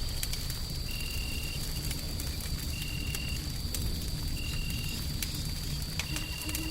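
Wood fire crackling, with scattered sharp pops over a steady low rumble and hiss of white noise. A short, faint high tone repeats about every second and a half to two seconds, and a thin steady high whine runs under it all.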